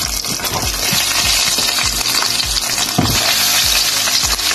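Chicken pieces frying in hot oil in a pan: a steady sizzle and crackle of bubbling oil.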